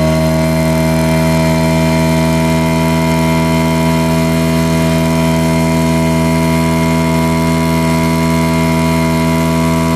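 Parus 5 hp two-stroke outboard motor running at a steady speed.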